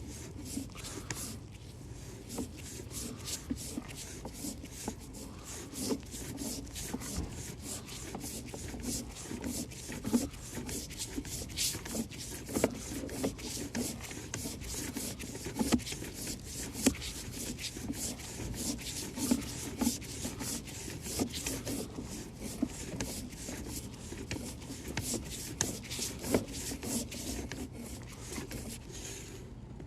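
A drain inspection camera scraping and rubbing as it is pushed along inside a washing machine drain pipe: a dense, irregular run of small clicks and scrapes, with a few sharper knocks, over a steady low hum.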